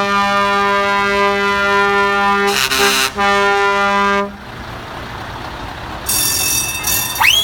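Truck air horn blaring in one long steady blast that stops about four seconds in, leaving engine rumble; then the horn sounds again, with two quick rising whoops near the end.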